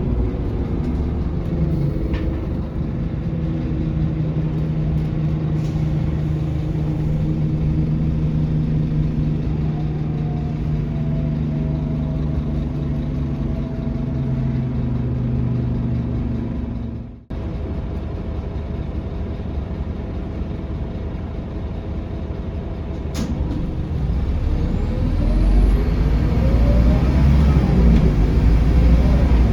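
Scania K230UB city bus heard from inside, its engine running at a steady drone. There is a brief sudden dropout partway through, and near the end the pitch rises as the bus accelerates.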